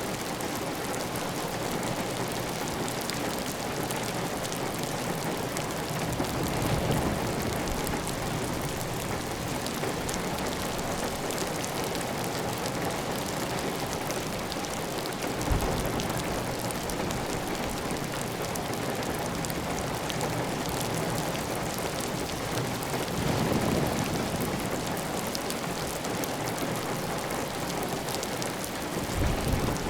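Heavy, steady rain falling on a clay-tile roof, with water running off the roof edge. Now and then a deeper swell rises, and a single sudden low thud comes about halfway through.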